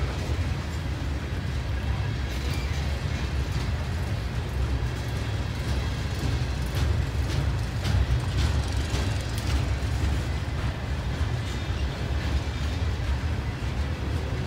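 Freight train of open-top hopper cars rolling past: a steady low rumble of steel wheels on the rails, with scattered clicks and knocks from the wheels and couplers.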